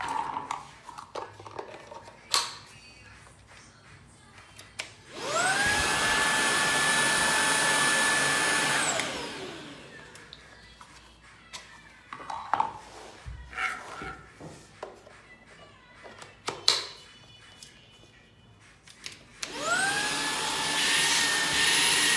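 Laresar Elite 1 cordless stick vacuum switched on twice. Its motor spins up with a rising whine, runs steadily for about four seconds, then winds down. Between the two runs there are clicks and handling knocks, and the motor starts up again near the end.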